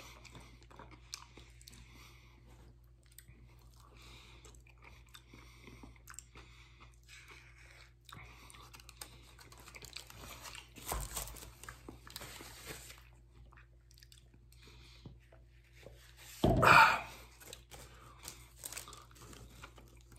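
A person chewing and eating potato salad by the spoonful: soft, wet chewing and mouth sounds. A short loud burst comes about three-quarters of the way through.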